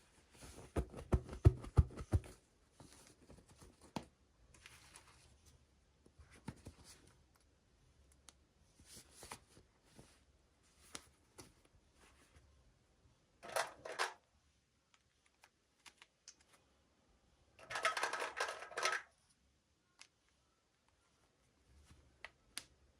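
Hands handling toy packaging and small plastic parts: scattered clicks and taps, a quick run of knocks near the start, and two short bursts of crinkling or tearing about 13 and 18 seconds in.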